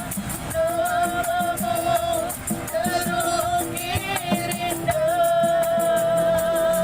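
A street busker singing a melody with vibrato over a quick, even rattle rhythm, holding one long note through the last couple of seconds.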